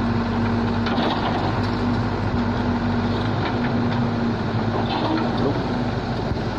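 Diesel engine running steadily at idle with a constant low hum.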